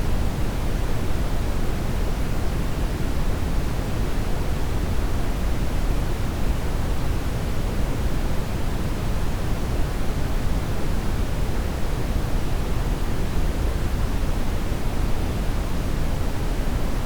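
Steady brown noise: an even, unchanging rushing rumble, heaviest in the deep low end.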